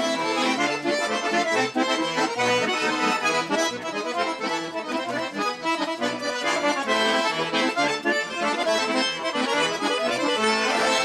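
Accordion playing a traditional folk tune, melody over bass notes. The music cuts off abruptly at the very end.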